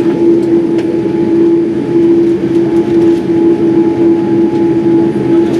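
Boeing 787 jet engines running at low power, heard inside the passenger cabin: a steady drone with one strong held tone over an even rumble.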